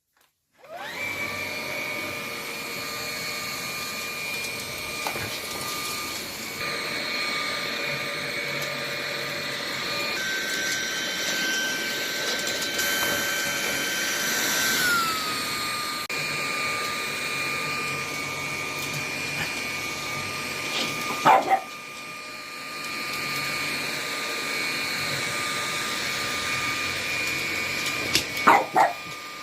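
Vacuum cleaner running with a steady whine, its pitch dropping slightly about halfway through. A French bulldog gives a few short barks about two-thirds of the way in and again near the end.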